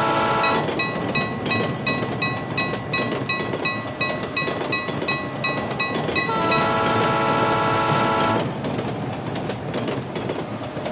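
Train sound effects: a multi-note train horn that stops about half a second in and blows again for about two seconds from six seconds in, over the steady rumble and clatter of the train on the rails. Between the two horn blasts a high ding repeats about two to three times a second, like a level-crossing warning bell.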